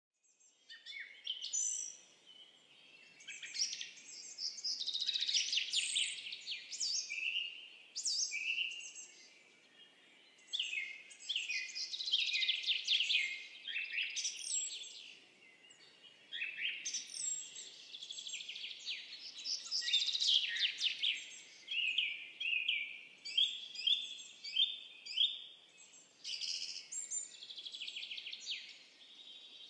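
Birds singing and chirping almost continuously: quick, high, repeated chirps and trills coming in clusters, with short pauses between them.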